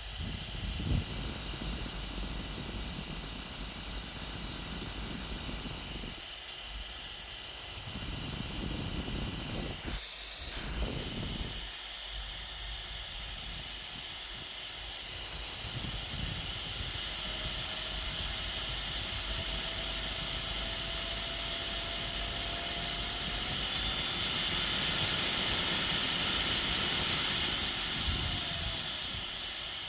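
High-speed handheld jet fan running: a high-pitched motor whine over a steady rush of air. The whine dips and recovers about ten seconds in, and later steps up in pitch and back down again.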